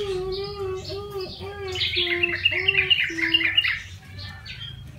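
Trucukan (yellow-vented bulbul) chirping in quick runs of short notes, loudest from about two seconds in, over a series of short, low, evenly repeated hooting notes.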